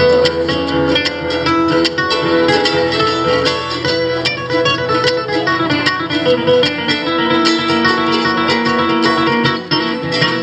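Acoustic guitar picked in a fast run of notes, an instrumental passage of a live string-band song.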